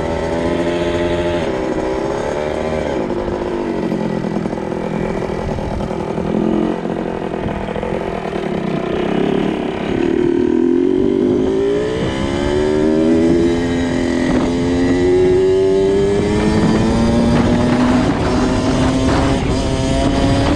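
2002 Kawasaki KX 65's 65cc two-stroke single-cylinder engine running under riding load. Its pitch falls and rises as the throttle is worked, dips around the middle, then climbs steadily through the second half.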